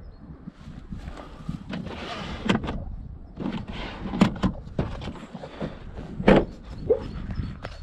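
Clicks, knocks and thumps from a Fiat Tipo SW estate's boot being handled: the tailgate, load floor and parcel-shelf fittings being moved and latched. The two loudest knocks come about four and six seconds in.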